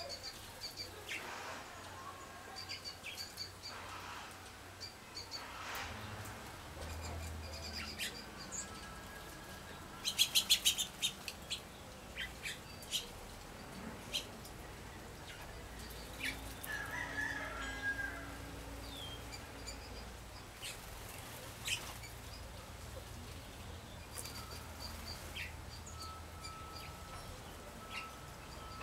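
Several small wild birds chirping in short, scattered calls, with a loud rapid rattle of sharp strokes about ten seconds in, and a thin steady whistle near the end.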